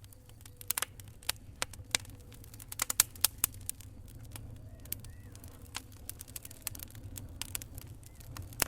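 Wood fire crackling in a fireplace: irregular sharp pops and snaps, with a cluster of louder ones about three seconds in, over a low steady rumble.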